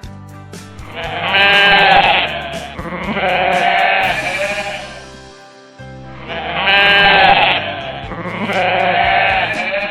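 Sheep bleating: four wavering calls in two pairs over background rock music.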